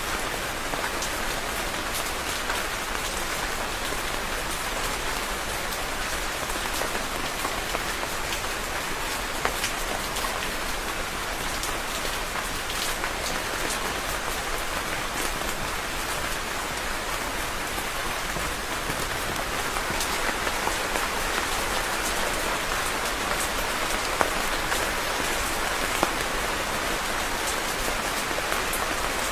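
Steady rain falling onto a surface, an even dense hiss with many individual drops ticking through it.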